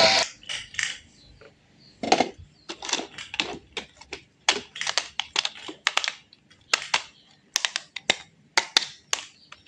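Irregular sharp clicks and light taps, about two a second, from small hard objects being handled.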